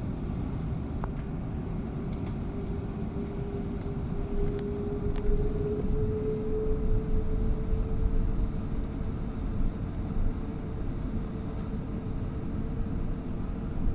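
Airbus A380 jet engines running with a deep rumble and a steady tone that rises slowly in pitch.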